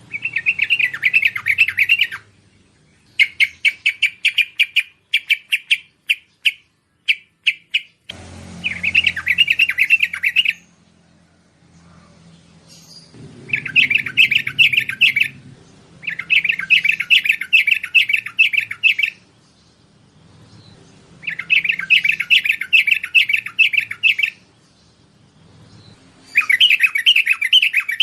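Bulbul (merbah) song: phrases of rapid chattering notes, each two to three seconds long, repeated with short pauses between them. A looser run of separate notes comes a few seconds in.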